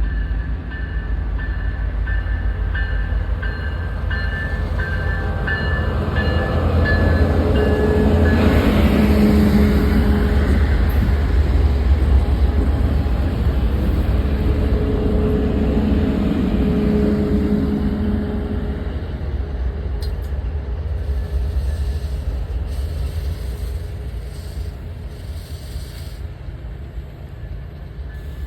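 Amtrak passenger train passing, its diesel locomotives and cars rumbling; the sound swells to its loudest in the middle and fades away near the end.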